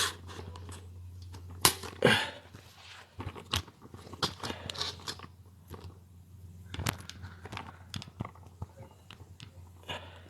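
Irregular clicks, knocks and rustling from hand work on a car interior while the passenger seat is being taken out, over a steady low hum.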